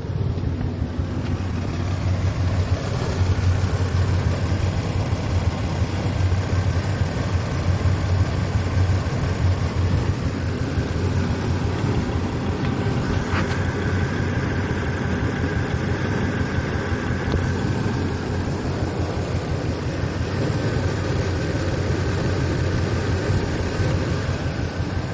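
Toyota Tacoma engine idling rough and unevenly with a misfire.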